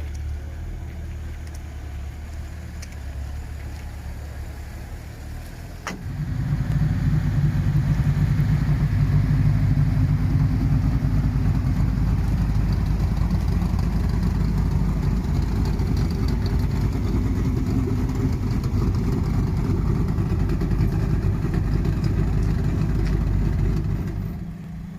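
A car engine starts about six seconds in and runs steadily at idle, much louder than the low rumble before it. Near the end its sound drops away.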